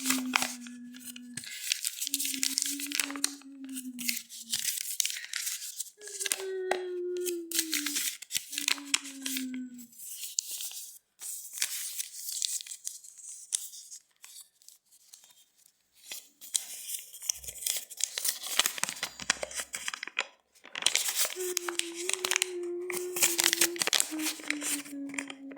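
A series of drawn-out creaking squeaks, each a second or two long at a low steady pitch that sags slightly, mixed with a crackling scrape. There are four squeaks in the first ten seconds, then only scraping and crackle for about ten seconds, then two more squeaks near the end.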